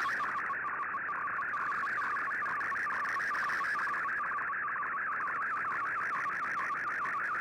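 Shortwave digital-mode data signal received on an Icom IC-R8600: a steady, dense warble of rapidly shifting tones, with faint hiss above.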